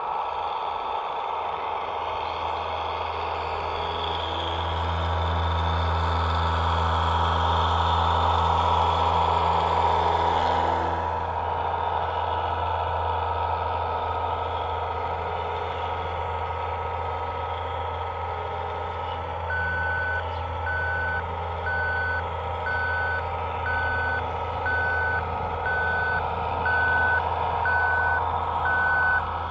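Scale RC construction vehicle's electronic sound module playing a diesel engine running, rising in level for a few seconds early on and then settling. About 20 seconds in a reversing beeper starts, one beep roughly every second, signalling the machine is backing up.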